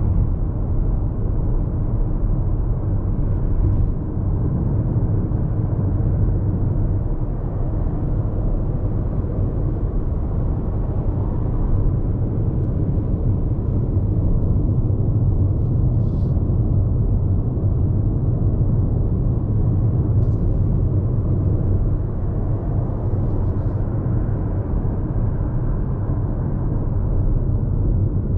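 Road noise inside the cabin of a Hyundai IONIQ 5 AWD electric car cruising on an expressway: tyre and road rumble with no engine sound.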